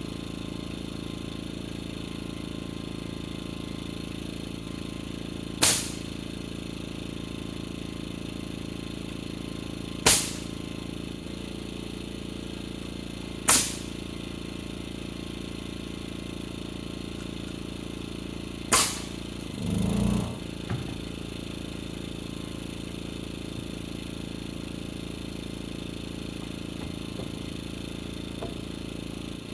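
Framing nail gun shooting nails into lumber rafters: four sharp shots several seconds apart over a steady low hum. Just after the last shot comes a short low rumble about a second long.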